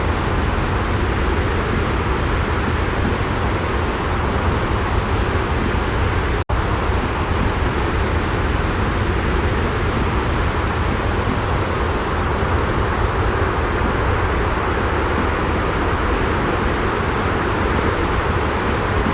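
Steady, even white-noise ambience with a strong low rumble. It is unbroken except for a momentary dropout about six seconds in.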